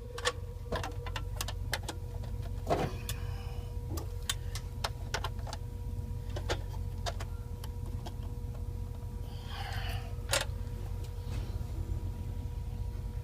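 Scattered small clicks and taps of hand work on the wiring of a replacement AC disconnect, with a brief rustle and a sharper click near the end, over a steady low hum.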